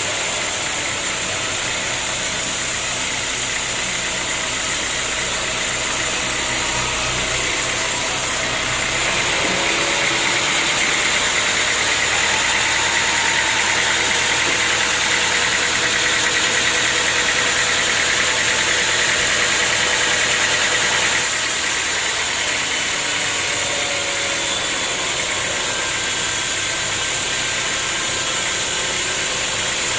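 Sawmill machinery running steadily, with a constant engine-like drone. From about nine seconds in it grows louder and harsher, then drops back to the steady running level about twenty-one seconds in.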